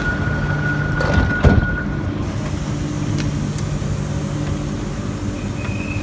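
Renfe Rodalies electric commuter train moving slowly past at close range: a steady electric traction hum with a thin high tone that cuts off about two seconds in, and a single brief knock around a second and a half in.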